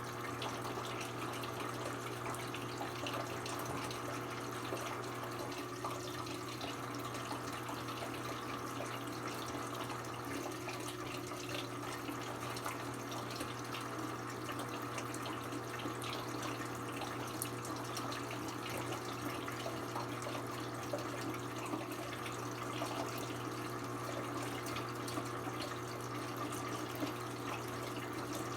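Water running steadily inside a Brastemp 17 kg BWK17 washing machine during its quick cycle, with a constant low hum underneath.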